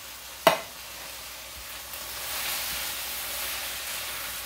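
Fried rice with beans and freshly added corn sizzling and steaming in a hot skillet: a steady hiss that grows louder about two seconds in. A single sharp knock about half a second in.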